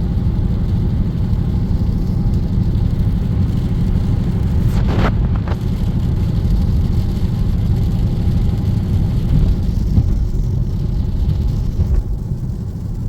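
Dodge Scat Pack cruising at highway speed on wet pavement, heard from inside the cabin: a steady low drone of engine and tyres on the wet road. There is a brief hiss of water spray about five seconds in.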